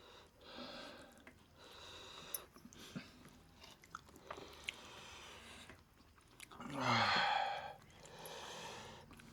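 Close-up chewing of roast chicken: wet mouth noises and lip smacks in stretches, with small sharp clicks between them. About seven seconds in comes the loudest sound, a breathy vocal sound whose pitch falls.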